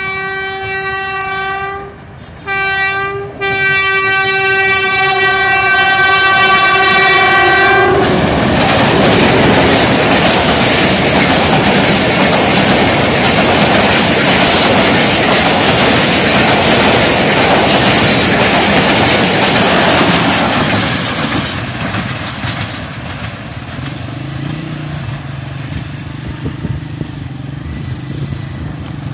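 Pakistan Railways diesel locomotive sounding its horn in three blasts, one steady pitch: a first of about two seconds, a short one, then a long one of about four seconds. The train then passes close by, a loud rush of coaches and wheels on the rails, which drops to a quieter rumble about twenty seconds in.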